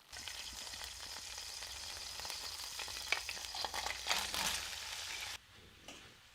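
Steady sizzling of something on a hot surface, with many small crackles, starting suddenly and cutting off about five seconds in.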